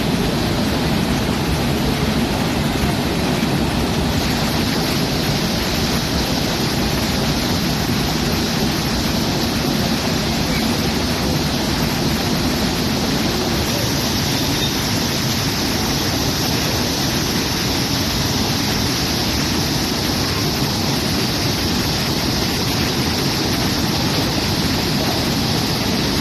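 Floodwater rushing in a loud, steady torrent, a continuous hiss and roar with no breaks.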